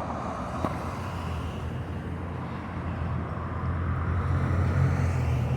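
Low diesel rumble of a fire apparatus engine, growing louder from about three seconds in.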